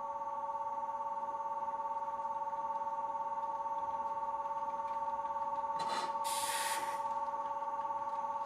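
Station departure bell: an electronic two-tone ringing that starts suddenly and holds steady with a slight rapid warble. A short hiss of air cuts in about six seconds in.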